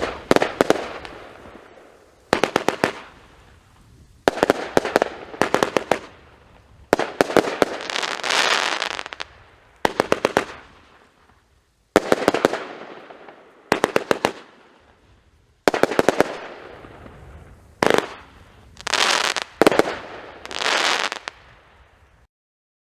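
A 30-shot fan firework cake firing in volleys. About every two seconds comes a quick cluster of sharp launch reports, followed by a crackling, hissing burst that fades. The firing stops shortly before the end.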